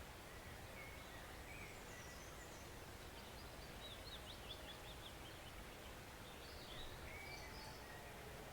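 Faint, steady rush of a forest stream, with small birds singing a few short chirps and a quick run of high notes in the middle and again near the end.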